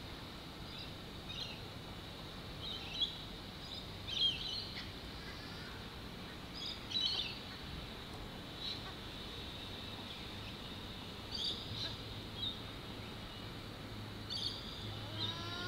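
Small birds chirping in short, high bursts every second or two over a faint steady background.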